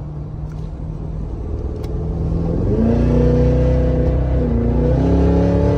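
Cadillac Escalade-V's supercharged 6.2-litre V8 and exhaust under hard acceleration. A low rumble jumps into a loud, rising pull about two and a half seconds in. The pitch dips briefly past the middle, then climbs again before cutting off sharply at the end.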